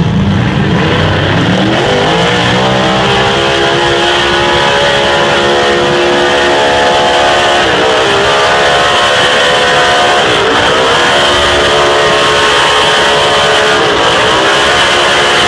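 Truck engine running hard under load on a truck pull. Its pitch climbs over the first few seconds, then drops briefly and climbs again three times.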